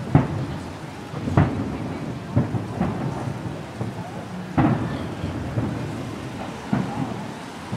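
Distant aerial fireworks shells bursting: about six booms at uneven intervals, each trailing off in a low rumble.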